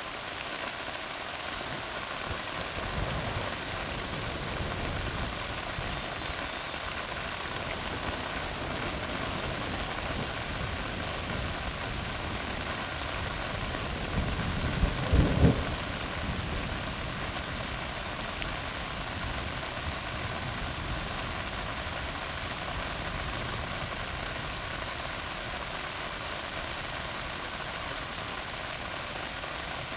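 Steady rain falling on a tar road, an even hiss of drops. About halfway through, a short clap of thunder rumbles low and is the loudest sound.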